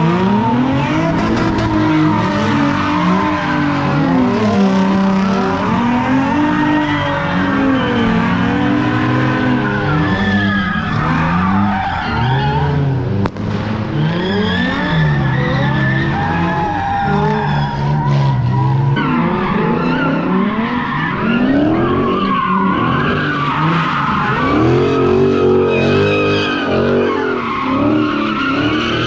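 Car engines revving hard, rising and falling over and over, with tyres squealing and skidding.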